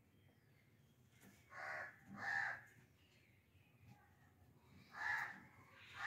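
Harsh bird squawks: two in quick succession about a second and a half in, and another near the end.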